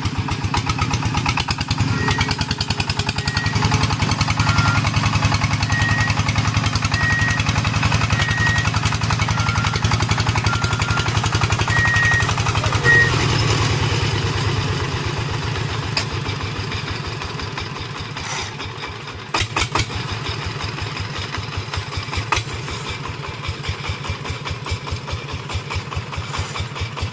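Single-cylinder diesel engine of a công nông farm tractor running with a steady rapid chugging, easing off a little about halfway through.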